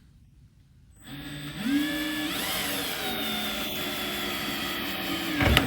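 Electric drill starting about a second in, rising in pitch and then running steadily with a whine as the bit chews into a broken steel fender bolt. Near the end there is a loud jolt as the bit breaks through.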